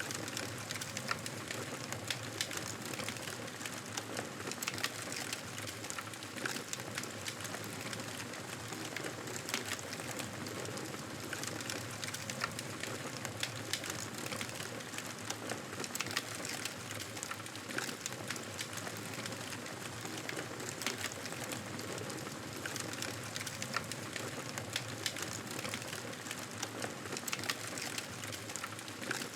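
Fire crackling in a fireplace: a steady hiss studded with frequent small pops and snaps.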